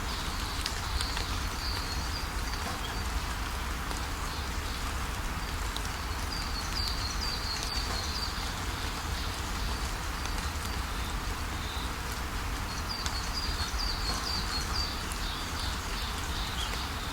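Steady rain falling, with a bird singing short runs of quick, high chirps three times: near the start, about six seconds in, and about thirteen seconds in.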